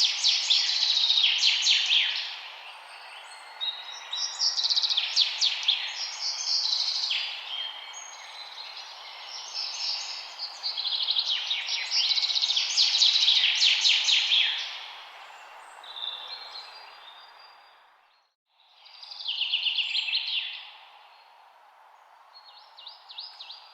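Songbirds singing in repeated bursts of rapid chirps and trills over a steady rushing background. Everything cuts out for an instant about three-quarters of the way through, then one more burst of song follows and fainter chirps near the end.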